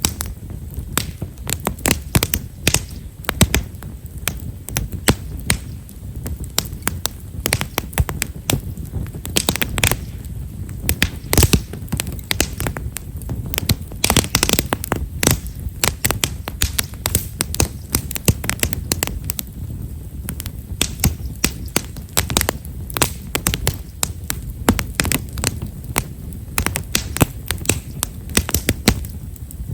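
Wood fire of himeshara (Japanese stewartia) firewood crackling, with many small, rapid, irregular pops over a steady low rumble of burning.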